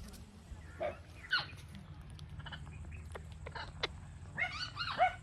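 Indian ringneck parakeet calling: a few short, scattered calls, then a quick run of several sharper, louder calls near the end. A steady low hum lies underneath.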